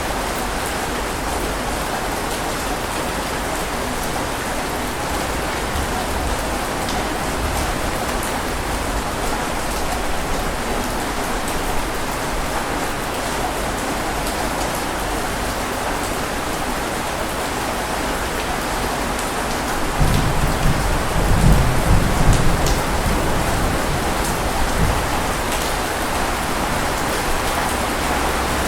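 Steady rain falling, with a low rumble that swells for a few seconds about two-thirds of the way through.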